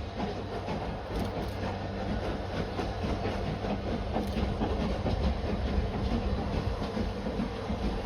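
A train running along the line: a steady rumble of wheels on rail that grows slowly louder.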